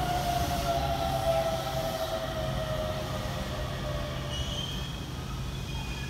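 Keisei electric commuter train pulling into a station platform, slowing as it comes in. A whine from its drive falls slowly in pitch, over a steady low rumble.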